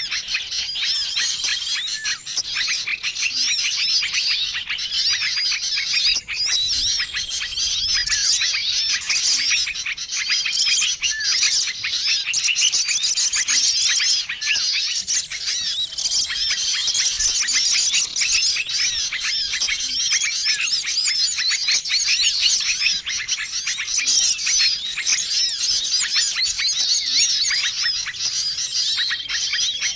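Bird-lure recording of a noisy chorus of many small songbirds, dense overlapping chirps and trills with no pause, with a short level whistle repeating every few seconds.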